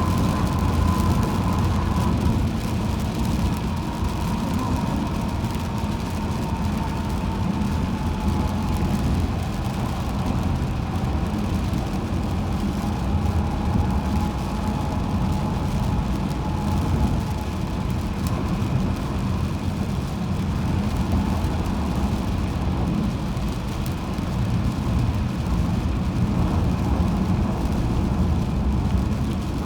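Steady road noise from a car driving on a highway: a constant low rumble of tyres and engine with a faint hiss, and a faint whine that slowly drops in pitch over the first ten seconds.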